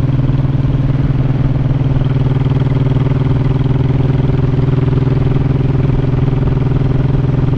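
Honda Shadow 1100's V-twin engine running at a steady, unchanging pitch.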